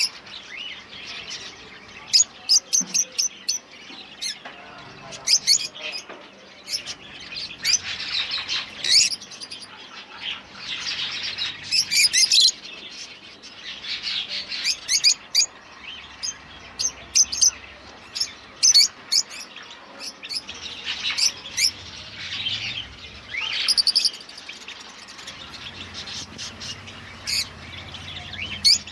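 Many caged pet birds chirping and calling together, a dense chatter with sharp, loud chirps coming in quick clusters every few seconds.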